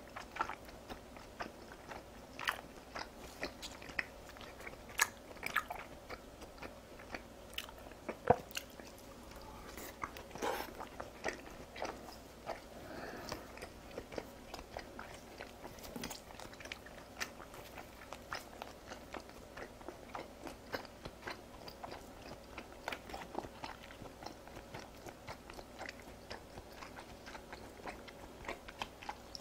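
A person chewing slices of raw beef (yuk-sashimi), a steady run of short mouth clicks with a few louder ones.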